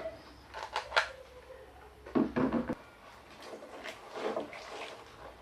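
Handling of craft materials on a work surface: scattered light knocks and clicks, with two sharp taps about a second in and a louder clatter a little after two seconds.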